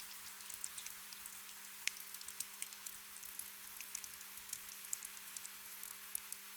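Gentle rain ambience: a soft steady hiss of rain with many scattered single drops ticking, under a faint steady low hum.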